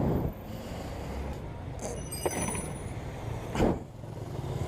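Steady low vehicle rumble with two short knocks, the second louder, and some light metallic clinks around two seconds in.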